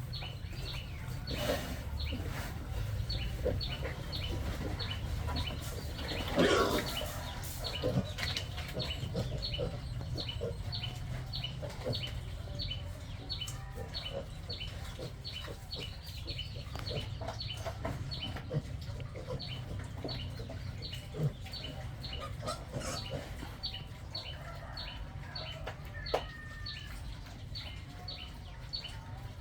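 Farmyard animal sounds: chickens clucking among livestock, over a steady run of short high chirps about three a second, with a louder animal cry about six seconds in.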